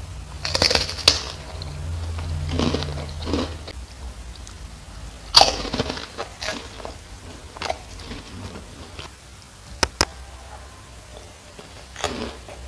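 Close eating sounds: crisp crackers crunching between the teeth and sauce-coated fried eggplant being chewed, with wet mouth and lip noises. The crunches come irregularly, a few sharper ones standing out.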